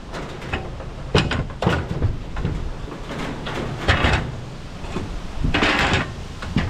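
Aluminum furniture frame being handled as scrap: a few sharp metal knocks, then a longer scraping rattle a little over five seconds in.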